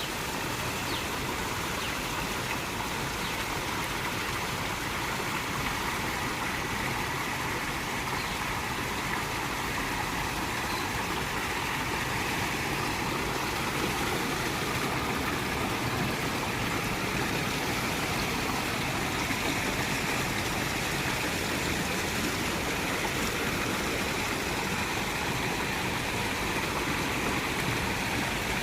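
Water fountain running, its falling water making a steady, unbroken rushing splash.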